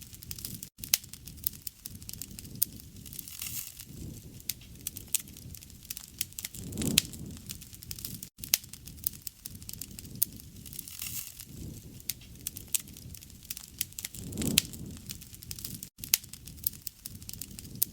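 Wood fire crackling and popping continuously with many sharp snaps, over a low rumble that swells about every seven seconds.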